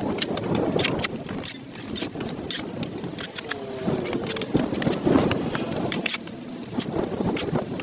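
Irregular scraping and clicking of a hand tool working dirt off a concrete sidewalk, over a low steady rumble.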